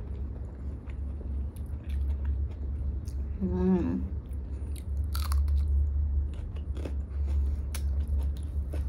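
Close-miked chewing of a mouthful of rice and lentil dal, with many small wet mouth clicks. About three and a half seconds in there is a short hummed "mmm".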